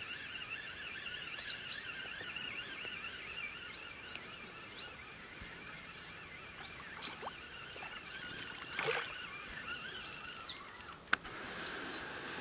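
Outdoor ambience of birds: short high chirps falling in pitch over a steady warbling chorus, with a sharp click about eleven seconds in.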